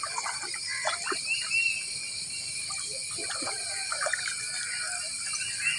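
Outdoor riverbank ambience: a steady high-pitched insect drone, with a few faint short chirps and scattered small knocks and splashy ticks.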